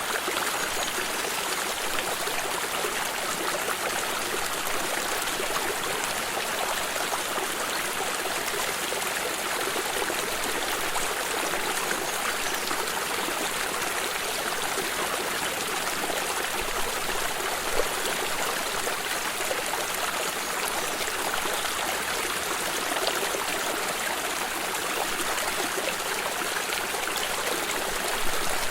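Small stream running over stones, a steady babbling trickle of water.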